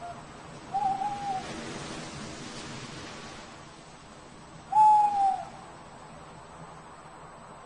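Owl hooting: two clear hoots about four seconds apart, the second louder and dipping in pitch at its end, over a faint hiss.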